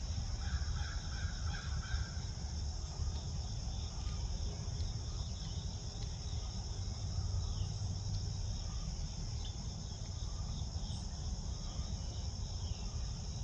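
Songbirds, a gray catbird or a northern cardinal, calling with short falling notes every second or so, with a brief run of rapid pulsed notes in the first two seconds. A steady high insect chorus and a low rumble run underneath.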